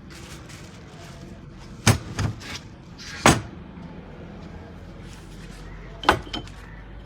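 Five sharp knocks over a steady low hum: two close together about two seconds in, a single louder one a second later, and another close pair near the end, typical of parts or tools being handled during the repair work.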